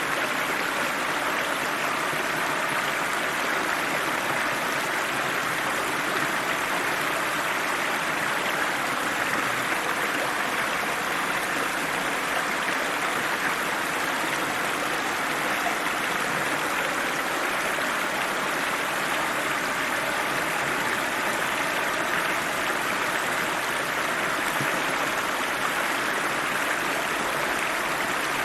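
River water rushing and splashing steadily over rocks in a cold, fast-flowing stream, an even rushing sound without breaks.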